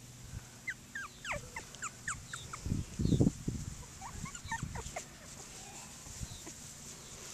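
Cockapoo puppies giving many short, high-pitched squeaks and whimpers over the first few seconds, with a loud muffled bump and rustle about three seconds in.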